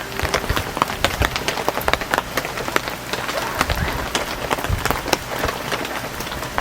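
Heavy rain falling on a tent, with a dense steady hiss and many individual drops heard as sharp ticks.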